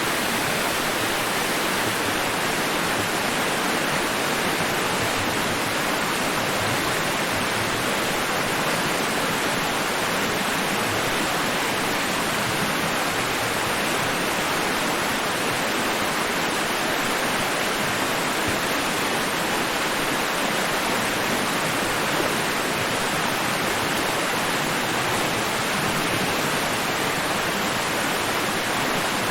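Steady white-noise hiss meant to sound like the sea, even and unbroken, with no rise and fall of separate waves.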